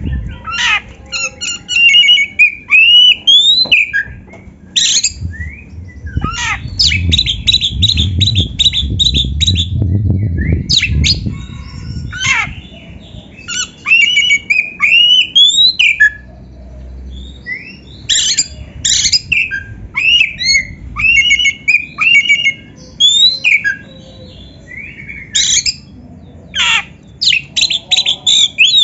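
Oriental magpie-robin (kacer) singing loud, varied song: quick rising whistles and sharp harsh notes, broken by fast rattling runs of repeated notes. A low rumble runs beneath it.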